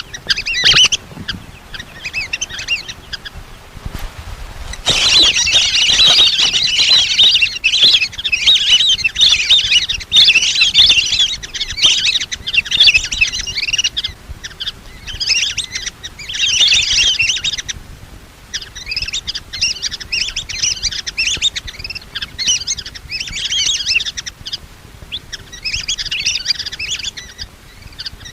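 Lesser whistling ducks calling: many rapid, high chirping whistles in bursts of one to three seconds with short gaps between. This is a lure-call recording used to draw the ducks in.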